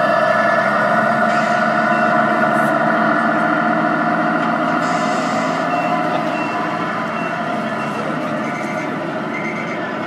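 Simulated truck engine sound from the electronic sound units of 1/14-scale radio-controlled trucks, played through small speakers. It is a steady, thin running note with no deep bass, fading slightly as it goes.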